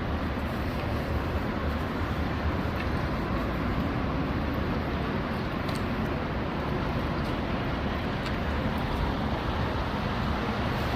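Steady low rumble of vehicle noise, with a few faint ticks.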